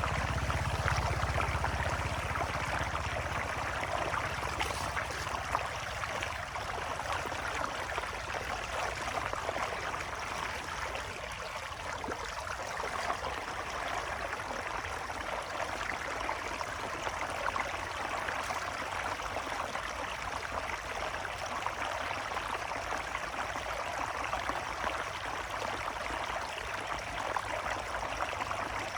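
Water flowing steadily with a continuous rushing sound, like a stream, with a deeper rumble in the first few seconds.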